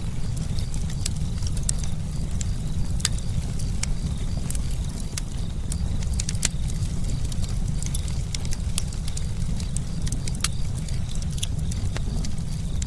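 Campfire burning with a steady low rumble of flames and frequent sharp, irregular crackles and pops from the burning wood.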